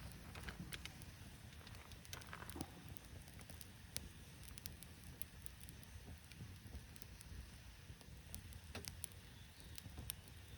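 Small wood campfire crackling faintly, with scattered sharp pops and snaps.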